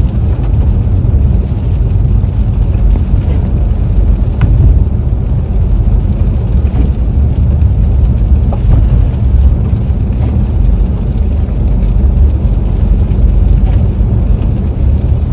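Steady low rumble of a car's engine and tyres, heard from inside the cabin while driving at moderate speed.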